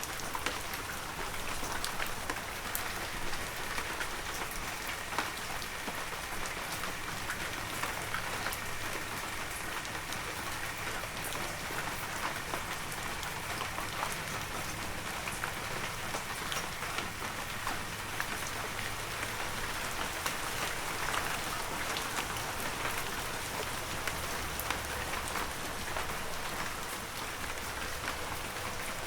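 Heavy rain falling steadily, an even hiss with many individual drops pattering close by.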